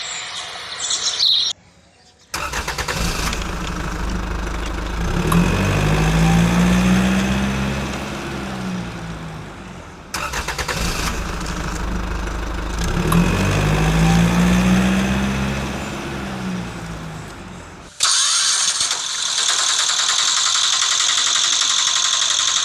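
A vehicle engine running and revving up and back down, the same rise and fall heard twice, then a steady high whirring sound for the last few seconds.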